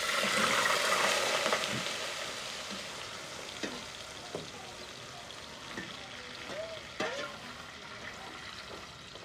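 Noodles sizzling as they fry in hot oil in an aluminium pot, loud at first and then settling to a quieter, steady fry. A few light clinks of a metal skimmer against the pot and plate come through.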